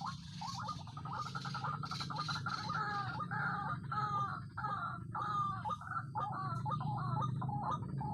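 White-breasted waterhen (ruak-ruak) calling: a long run of repeated croaking notes, about two to three a second, over a steady low hum.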